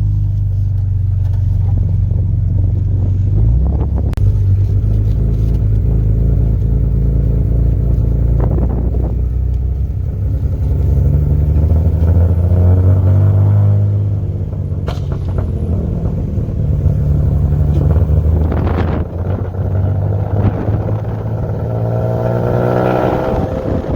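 Turbocharged 2.7 L V6 of a 2005 Hyundai Tiburon running under load during an acceleration pull. The engine note climbs in pitch twice, with a few brief sharp clicks in between.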